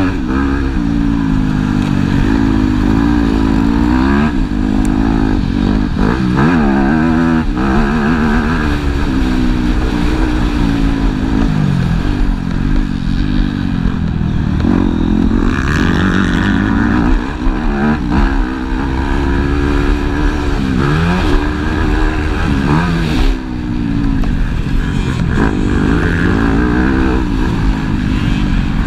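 Motocross bikes racing, their engines revving up and dropping back over and over as they shift gears and brake for corners.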